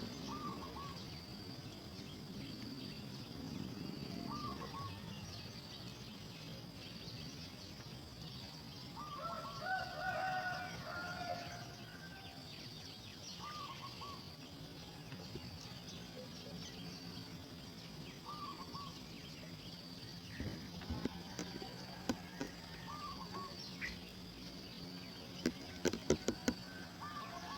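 Outdoor bird and insect ambience: a steady high insect drone, with a bird giving a short call about every four to five seconds and a longer, louder call about ten seconds in. A quick run of sharp clicks comes near the end.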